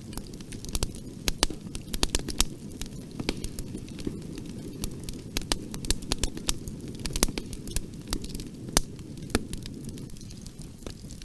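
Wood fire in a fireplace crackling, with irregular sharp pops and snaps over a steady low rumble of the burning flames.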